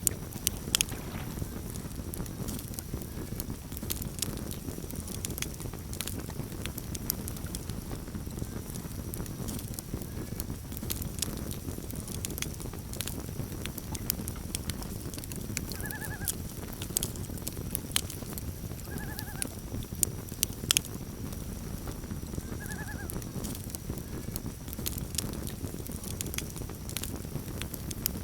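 Campfire crackling, with frequent sharp pops over a steady low rumble. Three short chirping animal calls, about three seconds apart, in the second half.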